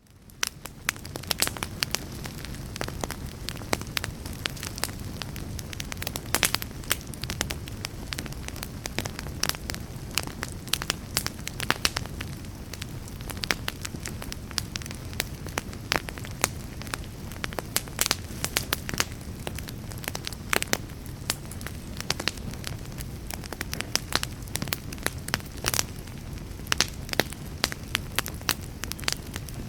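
Wood fire in a fireplace crackling and popping, many sharp pops over a steady low rumble of the flames. It fades in from silence at the very start.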